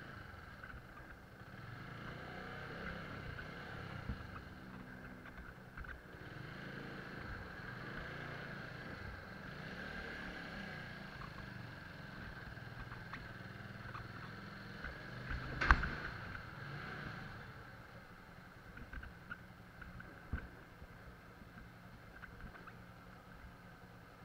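Motorcycle engine running steadily at low speed as the bike is walked and eased slowly through a narrow gate. A single sharp knock comes about two-thirds of the way through and is the loudest sound. The sound is quieter over the last few seconds.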